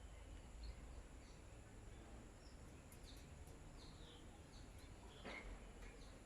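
Faint, scattered short bird chirps over a low background rumble, with one sharper, louder sound a little over five seconds in.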